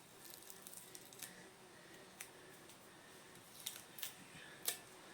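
Masking tape being peeled off the freshly painted body of a jack plane: faint crackling with several sharp ticks.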